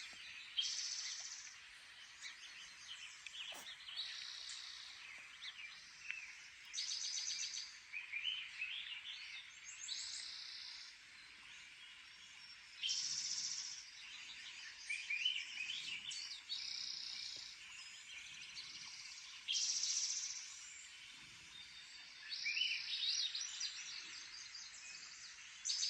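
Songbirds singing from a bird video played on a device's speaker: short bright song phrases and trills repeating every few seconds over a steady background hiss.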